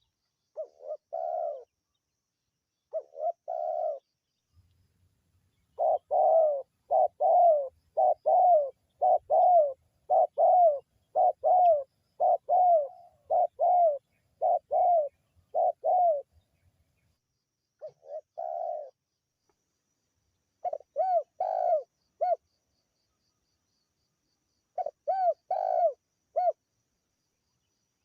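Spotted dove (tekukur) cooing in groups of short, mellow coos. There is a long even run of about a dozen coos in the middle, and shorter groups of two to four coos before and after it, with dead silence between the groups.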